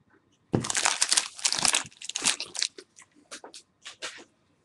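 Trading card pack wrapper being torn open and crinkled: a dense burst of crackling starting about half a second in, then scattered softer crinkles.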